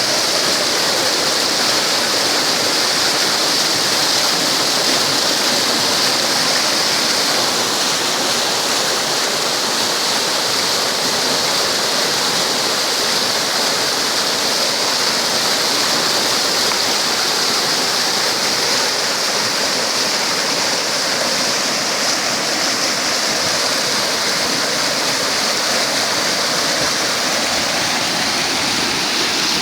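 Rushing water of a river swollen by heavy rain, a steady loud flow with no breaks.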